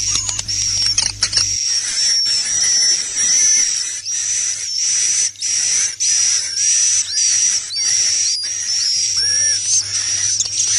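Dense, continuous twittering of swiftlets: rapid high chirps and short whistles overlapping. This is the 'inap' roosting call recording played in swiftlet houses to draw the birds in to roost and nest. A low hum underneath stops about a second and a half in.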